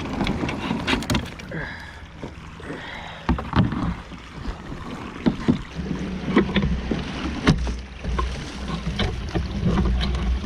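Plastic kayak being worked over a beaver dam: irregular knocks and scrapes of the hull and paddle against the branches, over a low rumble.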